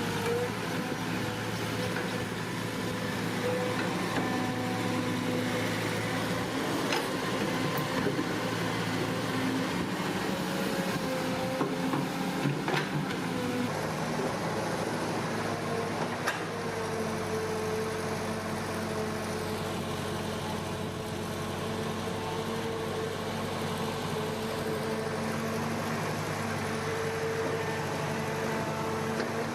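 Radio-controlled toy excavator and dump truck running: a steady electric motor and gear whine made up of several held tones, with a few sharp clicks. The tones change about halfway through.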